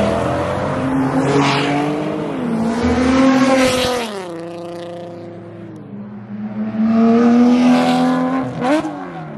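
Performance cars, among them a Corvette C8, an Infiniti coupe and a Porsche 911 GT3, accelerating hard away one after another. Their engine notes rise and drop through gear changes, loud in the first few seconds, quieter around five seconds in, and loud again near the end.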